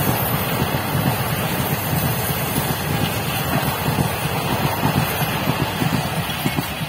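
Passenger coaches of a superfast express train running past at high speed, a dense steady noise of wheels on rails that starts to fade near the end as the tail of the train moves away.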